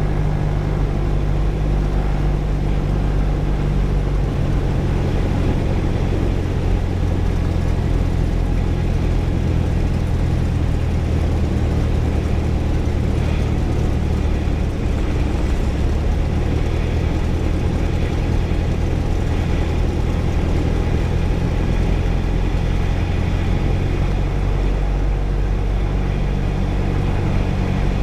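Single-engine Cessna's piston engine and propeller droning steadily at reduced power on approach, heard from inside the cockpit, the pitch dropping slightly about two seconds in.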